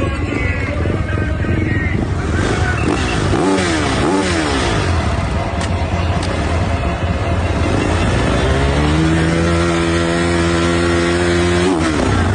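Motocross bike engine revving: the pitch swings up and down quickly twice about three to four seconds in, then climbs and holds a high steady note for about three seconds before cutting off sharply near the end.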